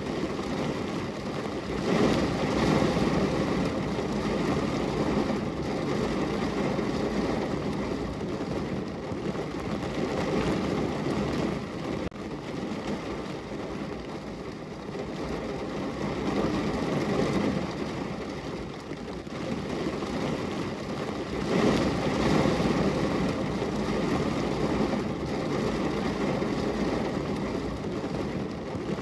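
Steady rain falling on a window: a dense, even hiss of drops that swells and eases every few seconds.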